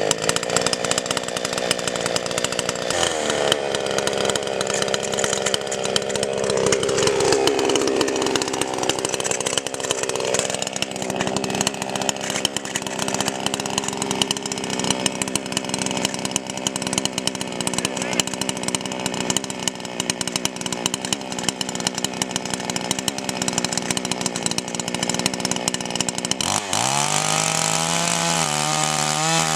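Chainsaw running under load, ripping lengthwise through a wet, green log in a chainsaw mill, its engine note wavering as it cuts. Near the end the engine note dips briefly and then steadies.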